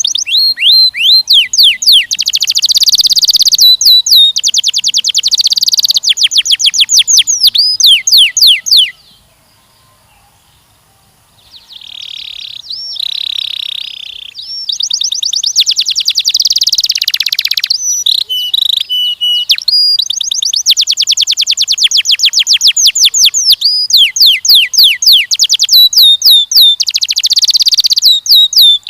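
Canary singing: loud, fast trills of rapidly repeated sweeping notes in long rolls. It breaks off about nine seconds in for a couple of seconds, then starts again.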